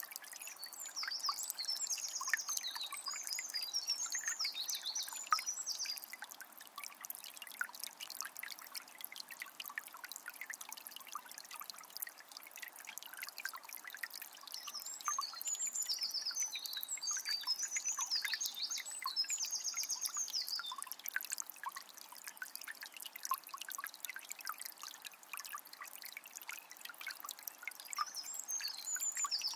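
Calm forest river flowing steadily, with small splashing water sounds. A songbird sings three bursts of quick repeated high notes: about a second in, around the middle, and again near the end.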